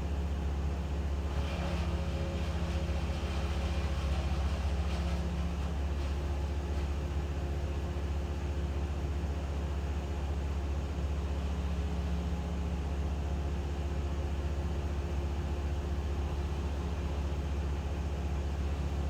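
An engine running steadily at a constant speed, with a deep, steady hum. A burst of added noise comes in from about a second and a half in and lasts until about six seconds in.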